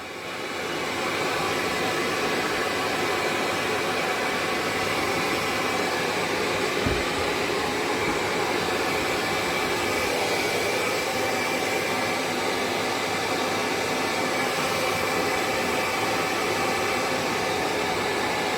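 Handheld hair dryer blowing steadily. Its even rush of air comes up to full within the first second, and there is one soft thump about seven seconds in.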